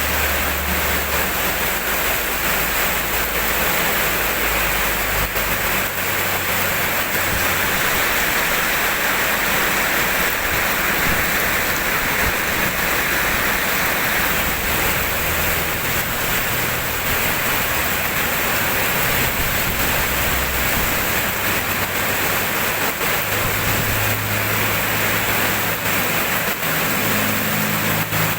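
Steady rainfall: a continuous, even hiss of rain with no breaks.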